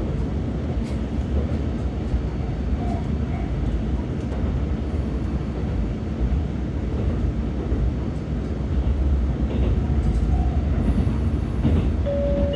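Interior running noise of a Shimabara Railway diesel railcar under way: a steady low rumble with scattered light clicks from the wheels and track. A steady chime tone starts near the end.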